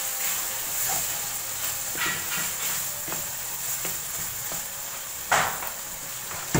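Beef mince and chopped tomatoes sizzling in a nonstick wok while a wooden spatula stirs them, with short scraping strokes every half second or so. One louder clatter comes about five seconds in.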